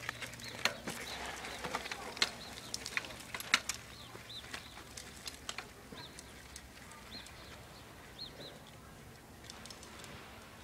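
A small bird chirping in short, repeated high notes, with scattered sharp clicks and knocks over the first four seconds.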